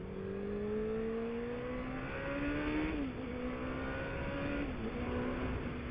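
Suzuki 600 motorcycle engine accelerating through the gears: its pitch rises steadily, drops at a gear change about three seconds in, climbs again, drops at another shift about a second before the end, then holds steady.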